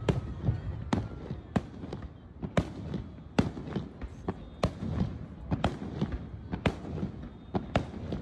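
Aerial fireworks bursting: a steady run of sharp bangs, about two a second, over a low rumble.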